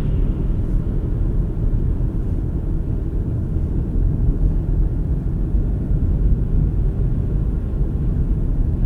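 Steady low rumble of a car driving along, with road and engine noise and no sudden sounds.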